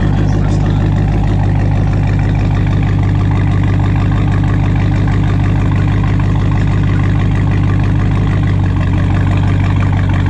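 Dodge Charger Scat Pack's 392 HEMI V8 idling steadily through a straight-piped exhaust with the mid mufflers and resonators removed, a loud, even rumble without revs.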